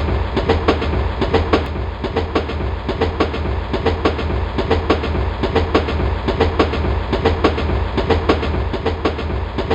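A train running along the track, its wheels clattering over the rail joints in a quick, steady clickety-clack over a continuous low rumble.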